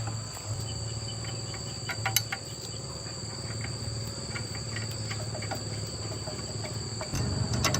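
Steady, high-pitched insect chirring like crickets over a low hum, with a few sharp clicks about two seconds in and again near the end.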